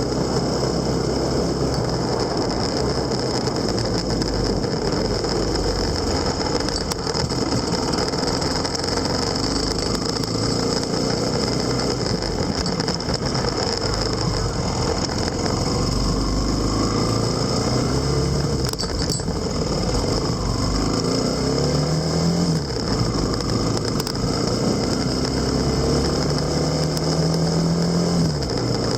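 Motorcycle engine running under way, with steady wind and road noise; the engine pitch climbs twice in the second half as it speeds up.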